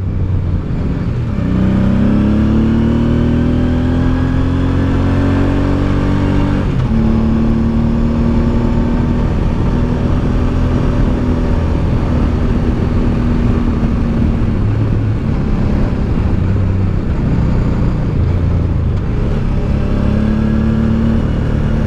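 Honda Deauville's V-twin engine under way. It rises in pitch for several seconds as it accelerates, drops suddenly at a gear change about seven seconds in, then runs at fairly steady revs with small rises and falls.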